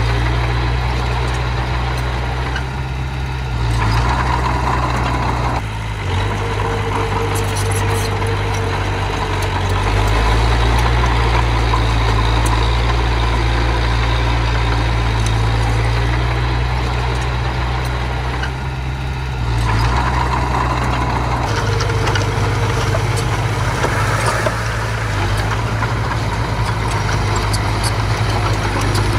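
Diesel engine of earthmoving machinery running steadily for the whole stretch. Its low note changes a few times.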